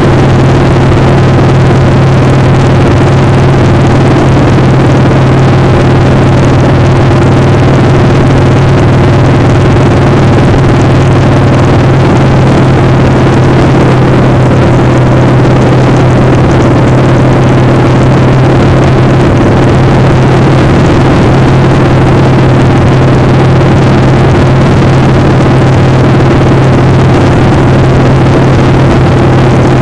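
Motorcycle engine running loud and steady at a constant pitch, with a broad rushing noise underneath.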